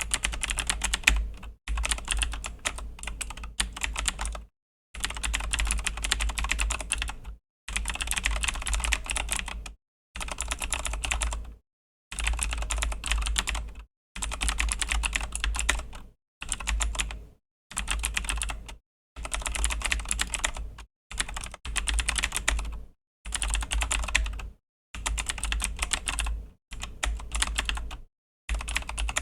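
Fast typing on a Razer BlackWidow V3 mechanical keyboard with Razer Green clicky switches: dense key clicks in runs of one to three seconds, broken by short silent gaps.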